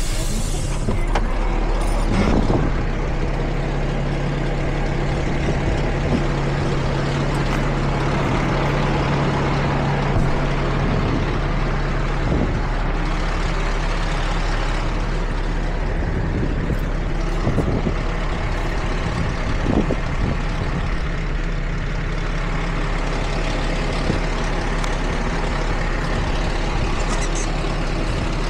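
Water truck's engine running steadily, with a low, even hum that drops out about twelve seconds in.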